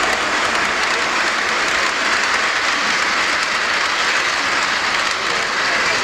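Gauge 1 model train running on the layout: the steady rolling noise of metal wheels on the rails.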